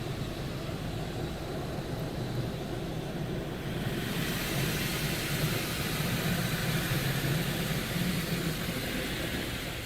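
Coleman Hanna Water Wizard 2.0 touchless car wash spraying water over the car, heard from inside the cabin as a steady rushing hiss over a low hum. The spray grows louder about four seconds in.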